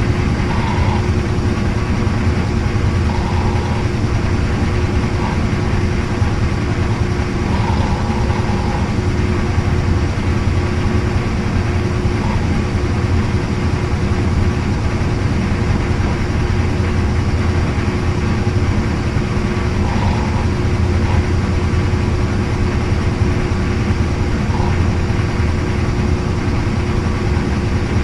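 Washing machine running steadily: an even low mechanical drone with a constant hum, unchanging throughout.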